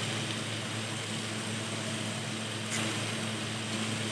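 Chopped onions, tomatoes and green chillies frying steadily in a kadhai, a constant sizzle over a steady low hum.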